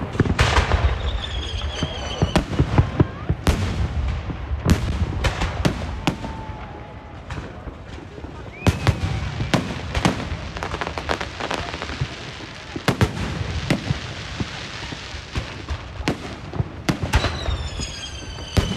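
Fireworks and firecrackers going off in many sharp, irregular bangs over a steady background of crowd voices. A whistling firework falls in pitch about a second in and again near the end.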